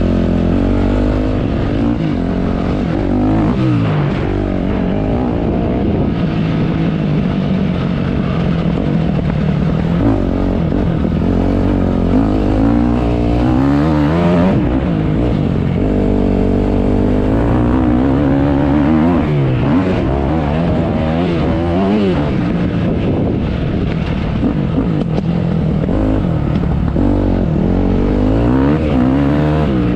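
Motocross bike engine revving up and down over and over as the bike is ridden, the pitch climbing and dropping every second or two.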